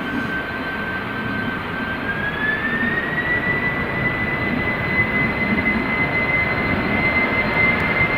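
Boeing 747 freighter's jet engines spooling up for takeoff. A high fan whine rises in pitch about two to three seconds in, then holds steady while the overall noise slowly grows louder.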